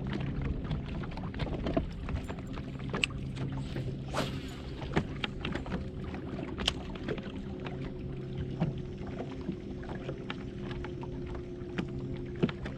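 Fishing boat on the water: a steady low motor hum with a couple of level tones, one of which drops out and returns, and scattered small clicks and knocks throughout.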